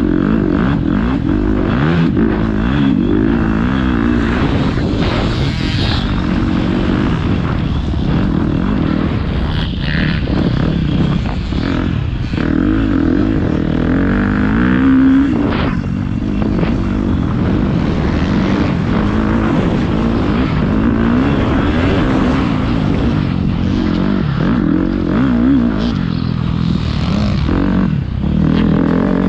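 Motocross dirt bike engine being ridden hard, its pitch climbing and dropping again and again as the rider works the throttle and gears.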